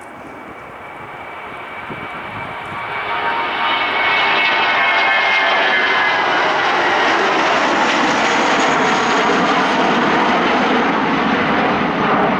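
Airliner's engines passing close, building over the first few seconds and then holding loud, with a high whine that slowly falls in pitch.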